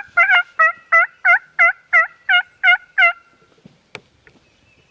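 A run of about ten loud turkey yelps, evenly spaced at roughly three a second, each a short note that dips and rises in pitch. A single sharp click follows about a second after the yelps end.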